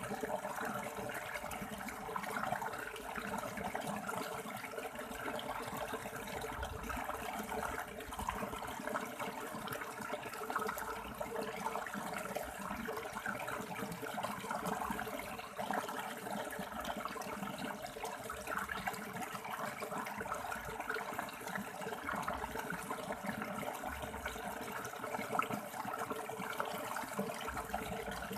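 River water flowing over rocks: a steady, even rush of moving water with no break or change.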